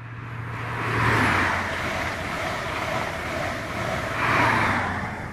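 High Speed Train with a diesel Class 43 power car at each end passing at speed. It gets loud twice: first as the leading power car goes by, then as the trailing one does, with wheel and rail noise from the coaches in between.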